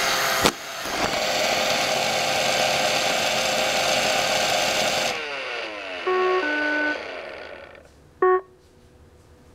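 iRobot Roomba 550 robot vacuum running, its vacuum motor and brushes making a steady whirring noise, with a sharp knock about half a second in. About five seconds in the motors shut off and wind down, falling in pitch. Then comes a two-note electronic beep, and near the end a single short beep.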